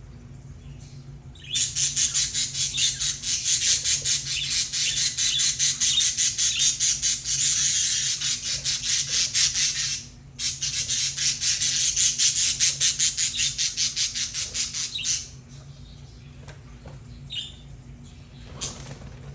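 Budgerigar making a long, loud run of rapid, harsh, evenly pulsed sound, broken once briefly about ten seconds in, followed by a few faint short chirps.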